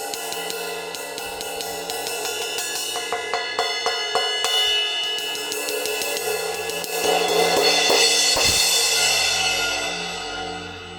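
Meinl Avanti 16-inch thin crash cymbal played on its own, without a sizzler: a run of quick hits through the first few seconds over a ringing wash, then heavier crashes that swell to the loudest point about eight seconds in, with the wash dying away near the end.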